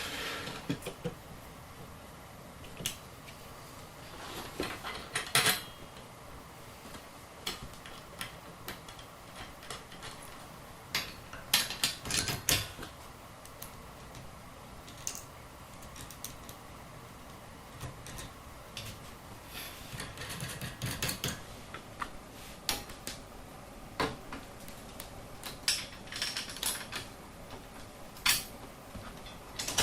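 Irregular metallic clinks, clicks and knocks of hand tools and steel parts being handled during work on the go-kart, with a denser clatter around twelve seconds in.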